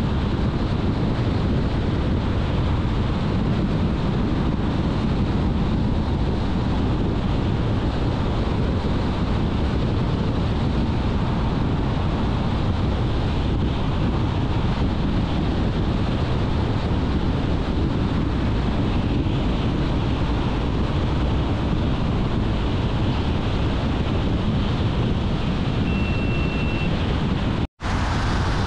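Car driving along the road at speed: a steady rush of tyre and wind noise. A short faint high beep sounds near the end, then the sound cuts out for an instant and returns.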